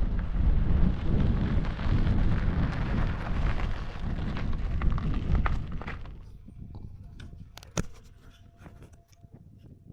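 Wind buffeting the microphone while riding, a heavy low rumble that dies away about six seconds in as the ride slows and stops. After that come a few faint clicks and one sharp click near eight seconds.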